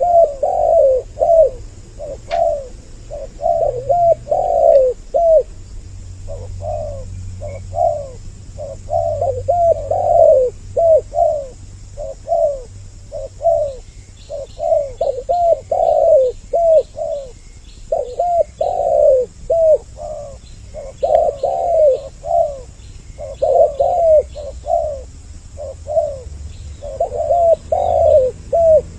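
Spotted doves (tekukur) cooing over and over, two birds' calls running together with hardly a gap. Faint high chirps of small birds sound behind them from about halfway through.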